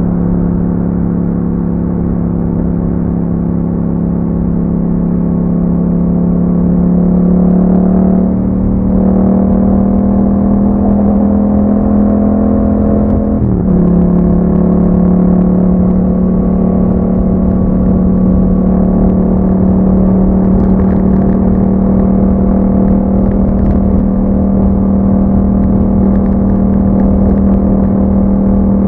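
2021 Yamaha MT-07's 689 cc parallel-twin engine running through an Akrapovic exhaust under steady riding load. The engine pitch rises a little, then dips briefly about halfway through and settles steady again.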